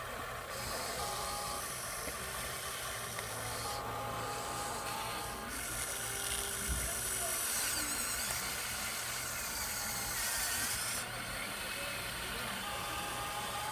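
Radio-controlled scale truck running, its electric drive giving an on-and-off thin whine over a steady hiss; the high hiss brightens from about the middle of the clip for several seconds.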